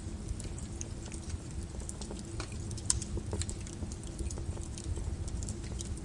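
Burning wood crackling: irregular sharp pops and snaps over a steady low rumble, with one louder pop about three seconds in.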